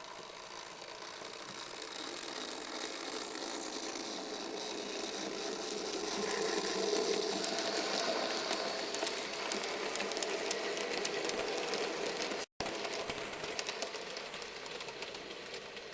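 Märklin mini-club Z-gauge model train running on the layout: the whir of its small electric motor with a fine rattle and ticking of wheels on the track. It grows louder toward the middle and eases off again, and cuts out completely for an instant about twelve and a half seconds in.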